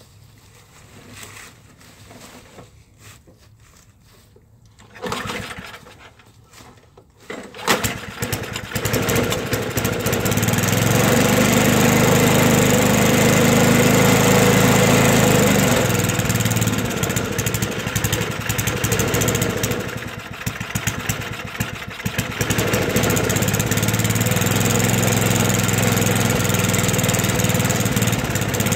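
Toro 421 snowblower's engine being pull-started cold after sitting about two years: a first pull about five seconds in, then it catches on the next pull and runs steadily, with a brief unevenness partway through.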